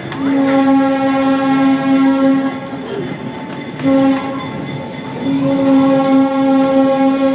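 Diesel locomotive air horn sounding for a street crossing: a long blast, a short one about four seconds in, then another long blast held on, over the rumble of the moving train.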